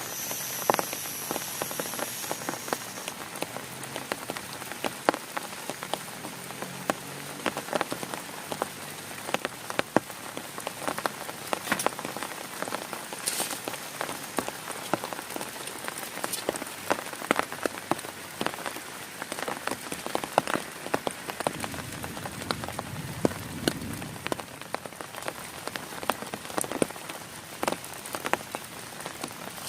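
Heavy rain falling on a tent: a steady hiss with many sharp individual drop hits on the fabric.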